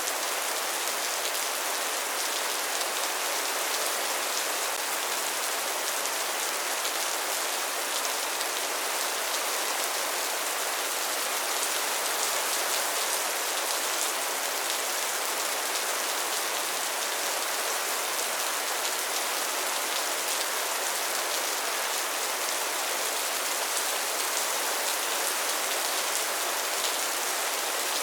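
Steady rain falling: an even hiss with fine pattering of drops, unchanging throughout, with no thunder.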